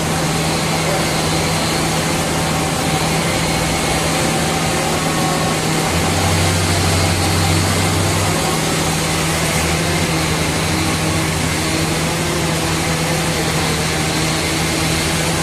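Sawmill machinery running steadily: an even mechanical noise over a constant low hum, with a deeper drone added for about two seconds near the middle.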